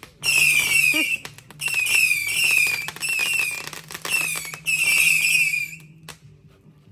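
Firework giving off rapid runs of short falling whistles in four bursts, stopping about six seconds in.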